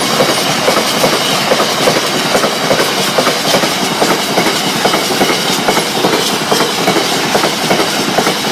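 Freight train wagons rolling past close by, their wheels clicking rapidly and steadily over the rail joints in a continuous clatter.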